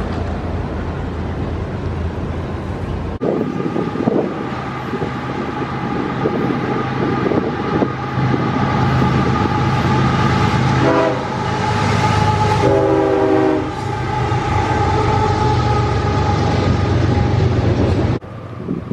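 A train passing close by: a loud, steady rumble of engines and rolling stock, with a sustained tone running through it and two short horn blasts near the middle.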